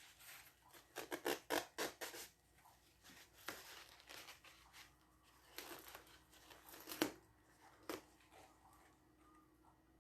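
Paper towel rustling and scraping in short bursts as it is dabbed and wiped over wet acrylic paint to lift some of the brown out of a pour.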